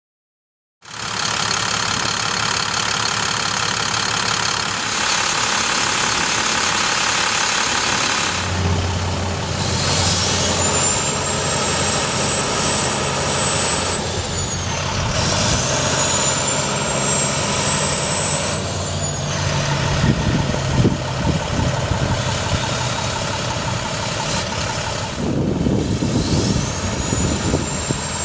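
Diesel engine of a 2008 International 4300 bucket truck running steadily, starting about a second in, with a high whine that rises, holds and falls away several times.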